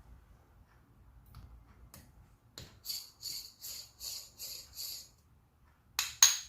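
Rhythmic rattling strokes, about three a second, while coffee is being prepared for the espresso basket. They are followed near the end by two sharp metal clinks with a short ring.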